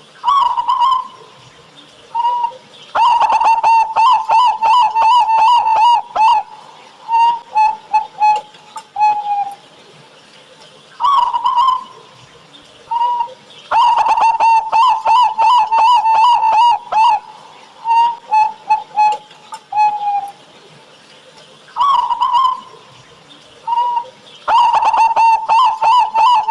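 Local Indonesian zebra dove (perkutut) cooing its song three times, about every eleven seconds: each phrase opens with a note or two, then a fast run of short coos and a few spaced, longer notes to close.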